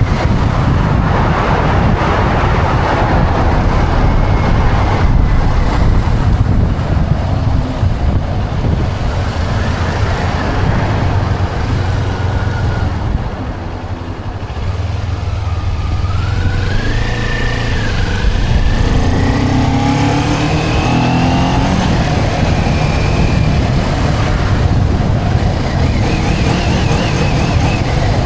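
Motorcycle engine running under way with steady wind rush over the microphone. The level drops briefly about halfway, then the engine pitch climbs and wavers as it picks up again.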